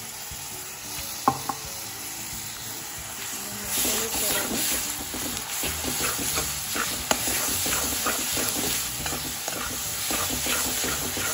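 Spice paste and chopped onions sizzling in oil in a metal kadai while a metal ladle stirs and scrapes the pan. There are two sharp clinks about a second in, and the stirring gets louder and busier from about four seconds in.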